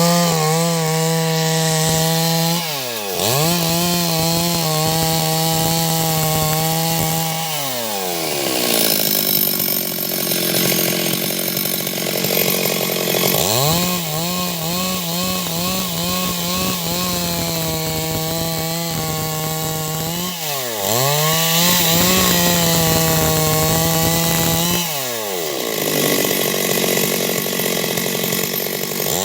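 Stihl 382 chainsaw ripping a log into boards: the engine runs at high revs, its pitch falling sharply and climbing back several times, with a long lower stretch in the middle, over the hiss of the chain cutting wood.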